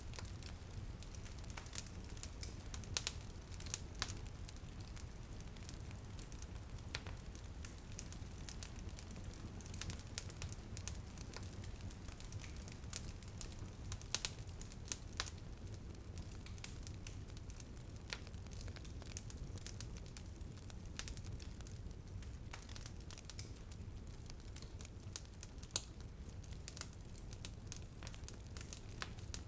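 Wood fire crackling in a fireplace: irregular sharp pops and snaps over a steady low hiss, with a few louder pops. Light rain is meant to lie beneath it but is not clearly heard.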